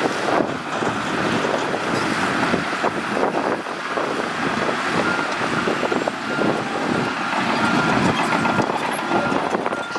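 Shantui bulldozer's diesel engine running under load with a steady clatter, as it works gravel through mud. A reversing alarm starts beeping about six seconds in, roughly two beeps a second.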